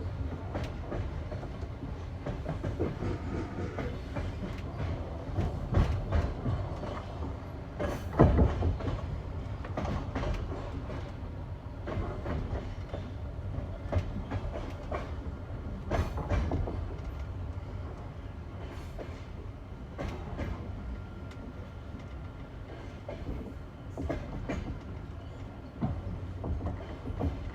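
Passenger train wheels clattering over rail joints on jointed track, with the classic clickety-clack groups of knocks about every two seconds over a steady rolling rumble.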